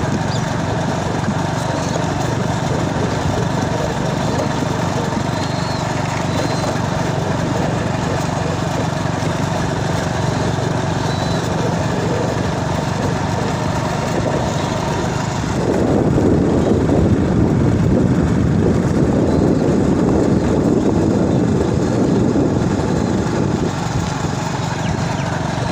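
A vehicle's engine running steadily while under way, with a louder, rougher rumble from about 16 s to 24 s.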